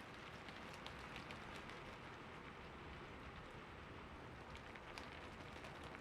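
Steady, soft rain: an even hiss of falling rain with scattered individual drops ticking through it.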